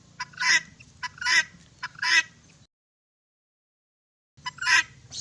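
Large domestic fowl calling: three loud two-part calls in quick succession, each a short lead-in note followed by a harsh honk-like call, then the sound cuts out and two more calls follow near the end.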